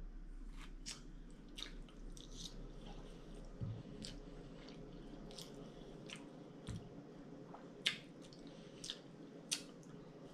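A person chewing a mouthful of macaroni and cheese with closed lips, giving soft, scattered wet mouth clicks, with two soft low knocks in between.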